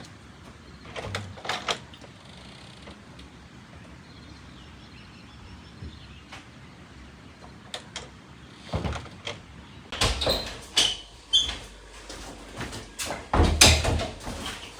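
Scattered knocks and scrapes of objects being handled, growing busy with clatter and low thumps in the last few seconds.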